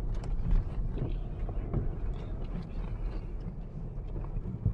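Car driving, a steady low engine and road rumble with a few light knocks and clicks.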